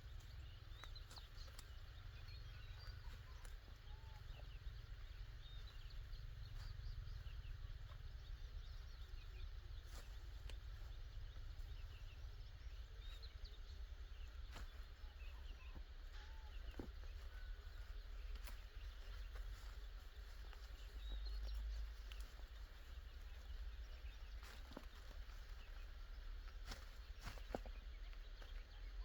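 Faint, scattered bird chirps over a steady low rumble, with a few sharp clicks here and there.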